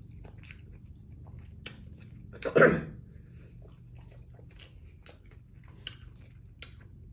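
Close-up mouth sounds of chewing a chicken burrito: soft scattered wet clicks and smacks, with one louder short sound about two and a half seconds in.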